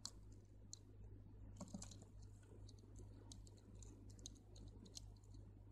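Faint, irregular light clicks of crystal beads tapping against each other as they are threaded and pulled along the beading line, over a low steady hum.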